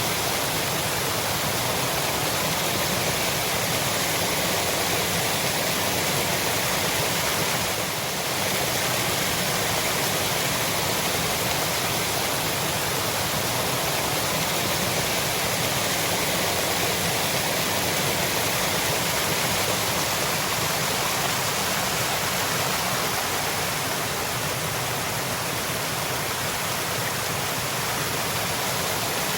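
Waterfall: water falling and splashing in a steady, loud rush, with a brief slight dip about eight seconds in.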